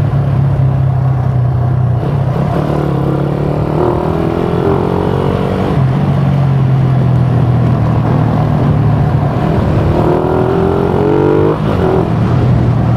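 Suzuki Raider 150 single-cylinder motorcycle engine running through a gutted ('kalkal') stock muffler while being ridden, its pitch rising twice as it accelerates and dropping suddenly at each gear change.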